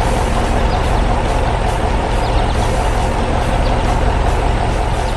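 Cement mixer truck's engine running steadily with a deep, even rumble.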